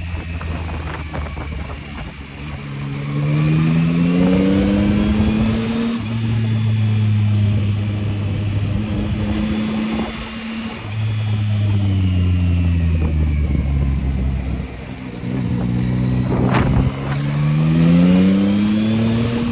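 Yamaha MT-09's inline-three engine under way. Its pitch rises as it accelerates a few seconds in and then holds steady, falls off around fourteen seconds in, and rises again as it pulls hard near the end. A short sharp crack sounds about sixteen seconds in.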